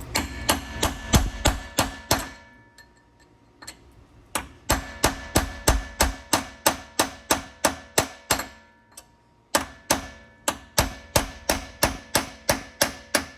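A hammer striking a spiked-tip steel punch set in the end of a Porsche Cayman's CV axle, driving the axle shaft loose from the wheel hub. The blows come at about three a second, each with a short metallic ring, with two brief pauses.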